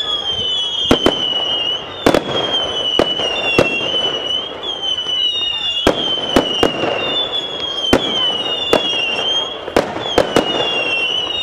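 Fireworks going off in quick succession: sharp, irregular bangs over a run of high whistles, roughly one a second, each gliding slightly downward before levelling off.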